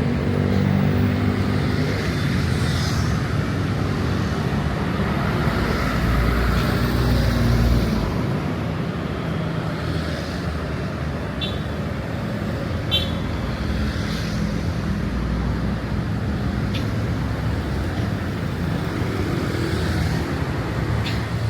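Road traffic: vehicle engines running and passing, with a steady wash of tyre noise. A louder vehicle passes in the first several seconds, and the traffic eases a little after about eight seconds.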